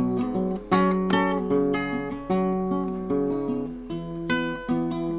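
Acoustic guitar picking and strumming chords, each note ringing on after it is struck, with no singing: an instrumental outro of the song.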